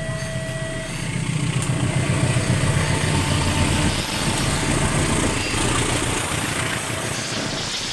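Diesel-electric locomotive passing at night, the low rumble of its engine growing louder for the first few seconds and easing after about four seconds.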